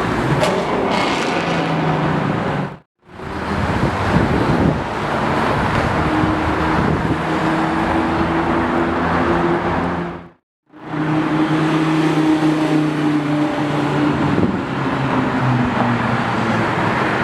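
Street traffic with car engines running and a steady engine hum under the road noise. The sound cuts out completely twice, briefly, about 3 seconds and about 10 seconds in.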